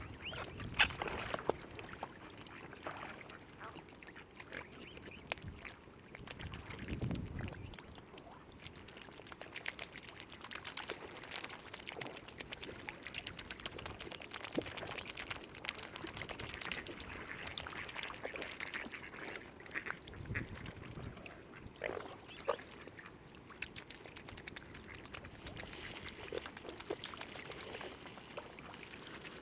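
Waterfowl calling: short calls at irregular intervals over a steady background hiss.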